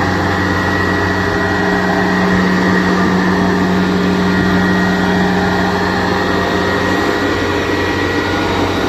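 Diesel engine of a Kubota DC70 Plus combine harvester running steadily under power, with a constant hum; one steady tone in it drops away about seven seconds in.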